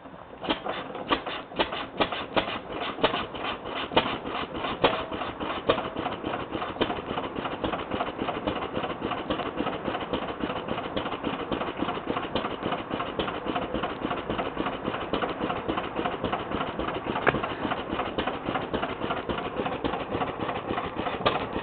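Lister L stationary engine starting up: it catches about half a second in, fires unevenly for a few seconds, then settles into a steady, rapid running beat.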